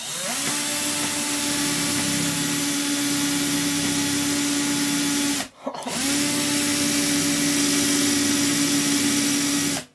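Electric drill boring a hole into a hard firewood log: it spins up and runs steadily, stops briefly about five and a half seconds in, then runs again until near the end.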